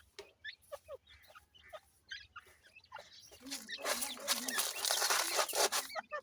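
Partridge chicks peeping in short, quick chirps. About halfway through, a louder rustling, scratching noise lasting a couple of seconds joins them.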